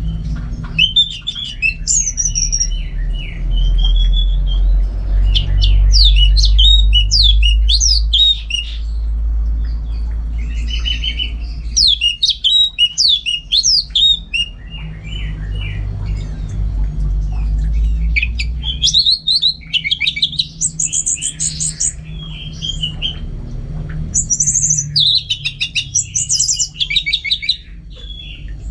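Orange-headed thrush singing in varied phrases of quick whistles and sweeping notes, with short pauses between phrases, over a steady low hum.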